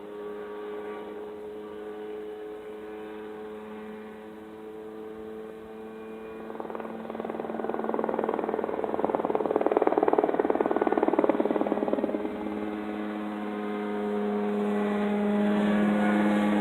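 Small helicopter's engine and rotor running while lifting a heavy pilot plus ballast. About six seconds in, the sound swells louder with a rapid chopping pulse. Around twelve seconds it settles back to a steady engine note, which then rises in loudness again.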